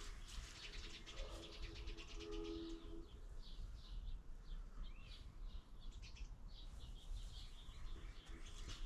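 Faint small birds chirping: a run of short, high chirps in the middle and later part, with a brief low steady hum about two seconds in.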